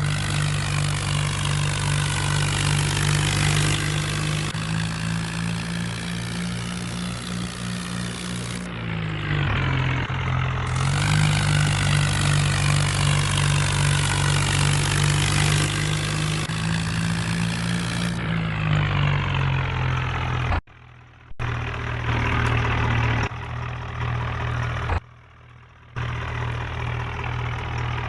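Swaraj 963 tractor's diesel engine running hard, its pitch dropping twice as the revs ease, with a couple of abrupt cuts in the sound near the end.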